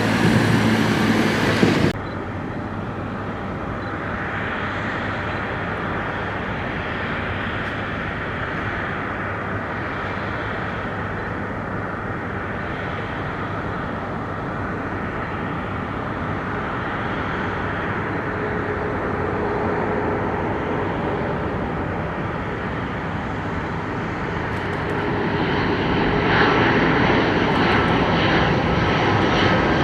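Jet airliner engines running with a steady rushing noise that grows louder near the end. A different, louder sound cuts off abruptly about two seconds in.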